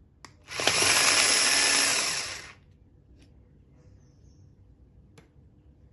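Electric kitchen chopper run in one burst of about two seconds, chopping small onions and green chillies, followed by a few light clicks.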